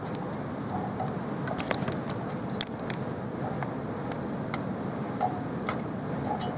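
Scattered light clicks and metallic taps at irregular intervals, over a steady background hiss.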